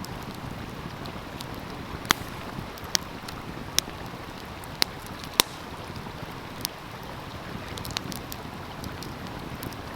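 Wood fire crackling, with sharp pops about once a second, over the steady rush of a flowing stream.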